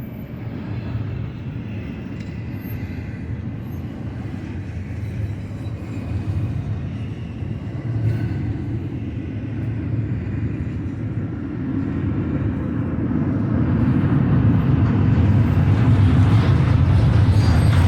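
Cars of a westbound double-stack intermodal train rolling past on the mainline: a steady low rumble of wheels on rail that grows louder over the last several seconds.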